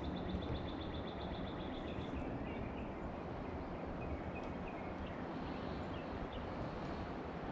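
Small birds singing over steady outdoor background noise. A rapid high trill of about nine notes a second runs for the first two seconds, then scattered short chirps follow.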